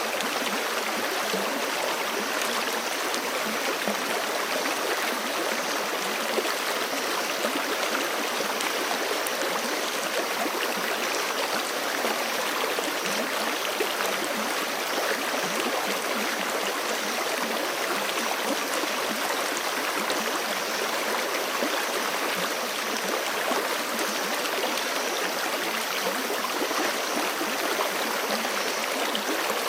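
Forest creek flowing steadily over rocks, an even rushing and gurgling of water with no breaks.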